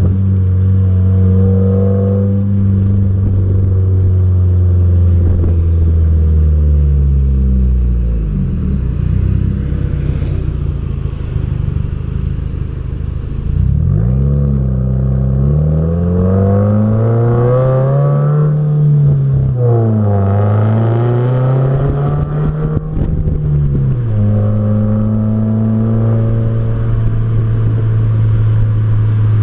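2015 Subaru WRX's turbocharged flat-four engine and exhaust while driving on the road. It starts at a steady cruise, drops in pitch as the car slows about seven seconds in, picks up sharply about fourteen seconds in, rises and falls through several accelerations and lifts, then settles back to a steady cruise near the end.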